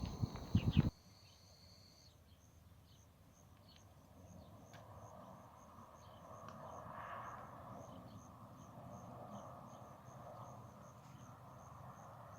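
An insect, cricket-like, chirps in a steady rapid series of short high pulses, with a soft outdoor background hiss. A loud clatter at the start cuts off suddenly about a second in.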